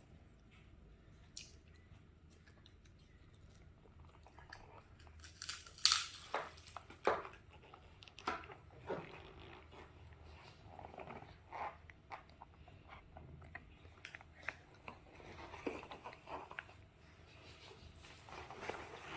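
A small child chewing and biting food close to the microphone: a run of small wet clicks and crunches, starting about four seconds in and loudest around six seconds.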